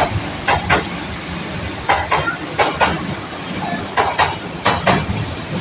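Train passing, its wheels clattering over rail joints in a repeating clickety-clack of paired knocks over a steady rumble.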